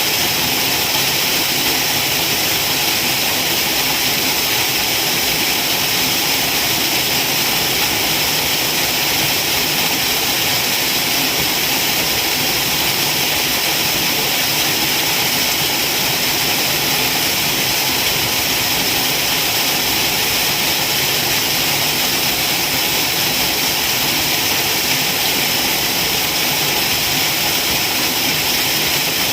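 Waterfall: falling water making a steady, loud rushing hiss with no change.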